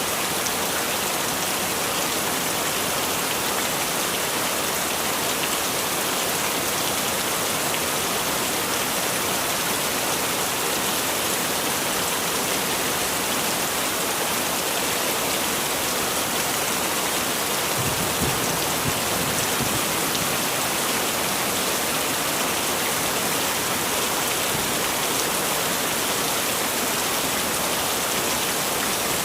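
Heavy rain falling steadily, a dense even hiss of drops on surfaces. A short low thump comes about two-thirds of the way through.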